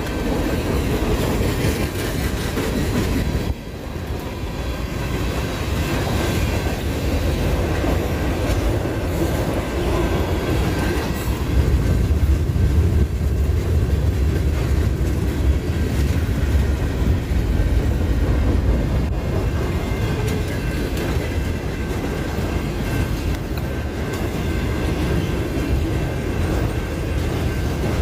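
Freight train cars rolling past: a steady, loud rumble of wheels on rail with some clickety-clack.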